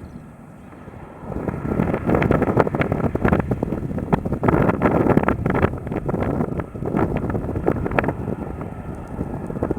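Wind buffeting the microphone in loud, uneven gusts, starting about a second in.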